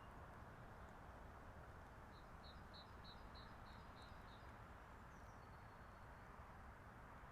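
Faint outdoor ambience: a steady low hum of distant motorway traffic and wind. About two seconds in, a small songbird sings a quick run of about eight repeated high notes, followed by a faint chirp or two.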